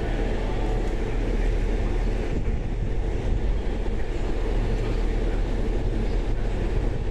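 E531 series electric multiple unit at the platform, a steady low hum and rumble that neither rises nor falls.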